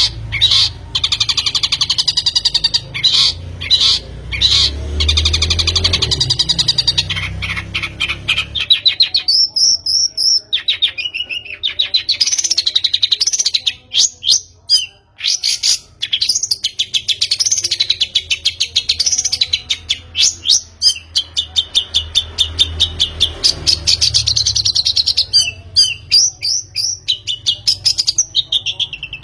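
Long-tailed shrike (pentet) singing: a fast, continuous chatter of rapidly repeated notes, with a run of rising-and-falling whistles in the middle.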